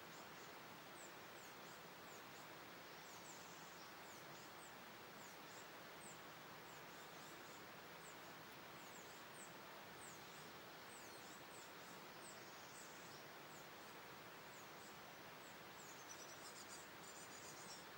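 Faint, short, high chirps of small birds, each sweeping downward, repeating every second or so over a steady hiss, with a busier flurry of chirping near the end.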